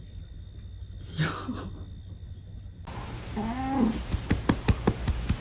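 A cat meowing, a short falling call about a second in and another bending call after three seconds, followed by a quick run of sharp clicks or taps.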